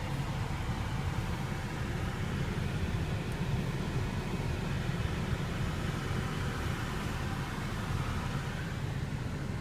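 Steady low rumble with a fainter hiss over it inside a car's cabin: the background hum of the vehicle, like the idling engine and the ventilation fan.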